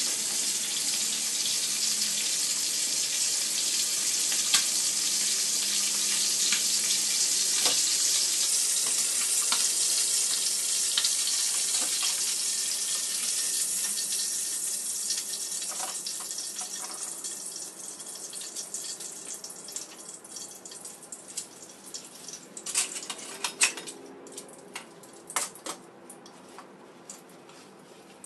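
Abalone sizzling in oil in a small frying pan, a steady hiss that fades away over the second half. Then metal utensils clink sharply against a china plate several times near the end.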